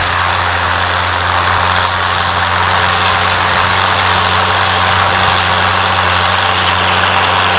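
John Deere 6810 tractor's six-cylinder diesel engine running steadily with an even low hum.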